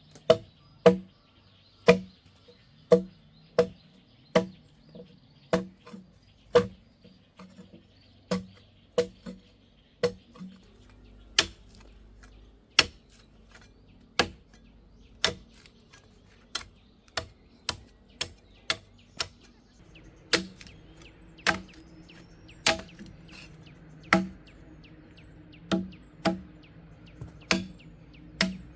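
A hand tool striking a hard material over and over, about one blow a second, each blow a sharp knock with a short ring, as in chopping or hammering during building work.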